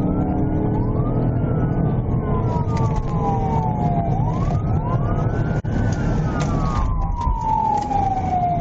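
Police cruiser siren wailing, its pitch rising quickly and then falling slowly in long repeated sweeps, over the steady run of the cruiser's engine and road noise during a pursuit.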